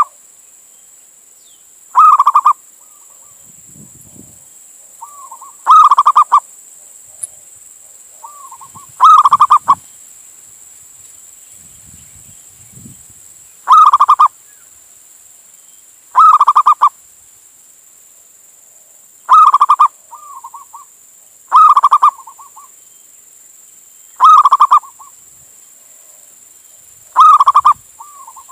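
Male zebra dove (perkutut) singing its cooing call over and over: nine loud, short phrases about two to four seconds apart, each a quick run of pulsing coos, some led in by a softer short note.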